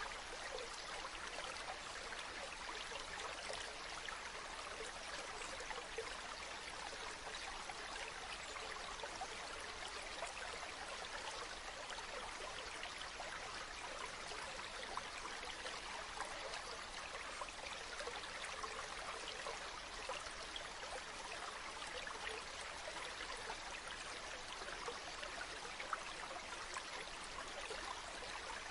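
Running water of a stream or waterfall flowing steadily, with a constant rush full of fine splashing.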